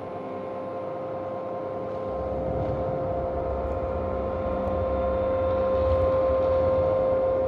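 A steady drone with a held tone, joined about two seconds in by a low rumble that grows louder toward the end.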